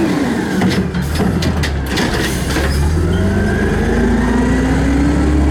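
Garbage truck engine running, its pitch dipping at first and then climbing steadily from about two seconds in as the revs build. A few knocks and rattles come in the first two seconds.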